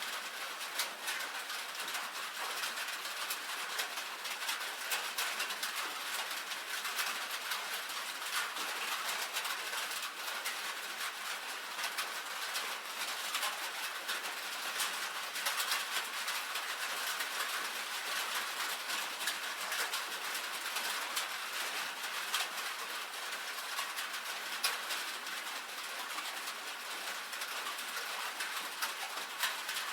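Rain on a tin roof: a steady, dense patter of drops with many sharp individual ticks, bright and hissy with no low rumble.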